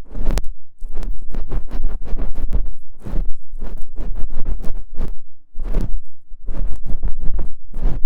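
ASMR ear-picking sounds: an ear-cleaning tool scratching and scraping close against the microphone in quick clusters of strokes, with short pauses between them and a heavy low rumble from the contact.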